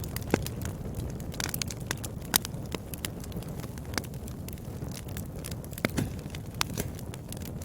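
Fire burning in a fireplace: a steady low rumble with irregular sharp crackles and pops, a few of them louder, about two and a half seconds in and again about six seconds in.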